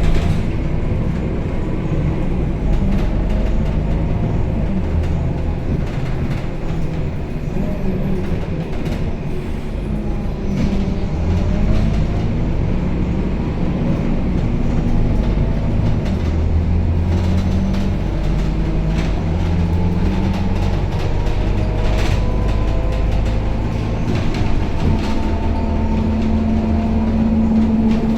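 Inside a Scania K270UB city bus on the move: its diesel engine runs under a steady rumble, its note falling and rising as the bus slows, accelerates and shifts gear, with scattered rattles from the body and fittings.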